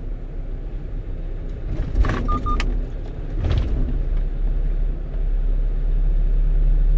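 Steady in-cab engine and road rumble of a one-ton truck driving on the road. A few sharp clicks and a brief high beep come about two seconds in, with more clicks a second or so later.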